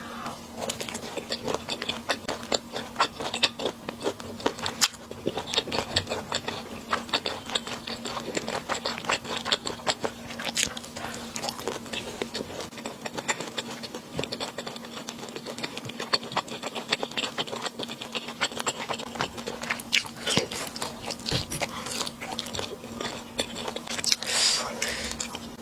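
Close-miked chewing and biting of Buldak spicy noodles and chewy squid, a dense run of wet mouth clicks and smacks with a louder slurp-like rush near the end. A steady low hum runs underneath.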